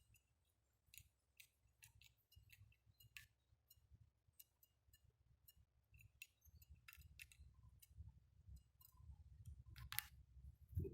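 Irregular sharp clicks and taps, a few a second, of small birds pecking at peanuts, with a louder knock near the end, over a faint low rumble.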